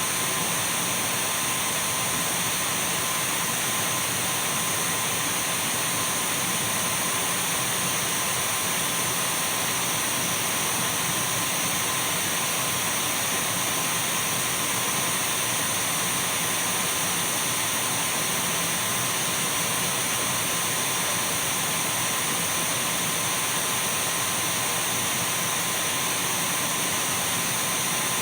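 Dyson V12 cordless stick vacuum cleaner running steadily: a constant rush of air with a steady whine from its motor.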